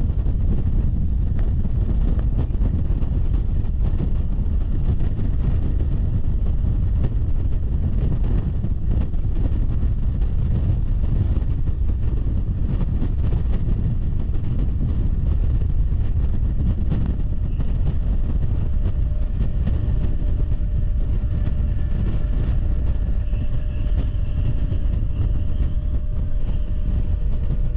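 RER suburban train running along the track: a steady low rumble of wheels on rails, with wind noise. Faint whining tones join in during the second half.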